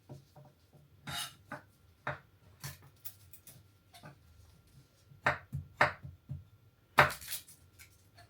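A kitchen knife knocking on a chopping board in a few separate, irregular strokes, the loudest about seven seconds in.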